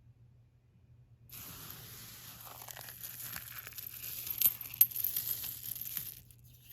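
Crunchy debris crackling and clicking as a vacuum's attachment tool sucks it up, starting about a second in, with a few sharper clicks midway and a brief break near the end.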